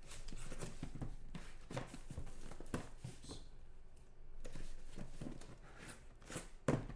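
Handling noise from opening a box of trading cards and the pack inside: scattered soft clicks, taps and rustles of cardboard and wrapper, with a louder knock near the end.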